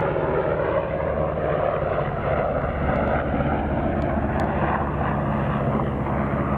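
Steady engine drone and road roar of a moving car, with a low hum running underneath.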